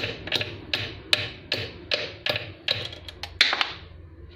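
Small hammer tapping a metal drift to knock a stuck pin out of a sewing machine's presser-foot lifter. About ten quick, even metallic taps, roughly two and a half a second, that stop about three and a half seconds in.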